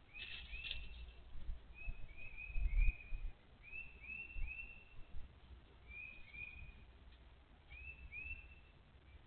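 A songbird giving short, arched chirps in little groups of two or three, repeated every second or two, over a low rumble that swells briefly about three seconds in.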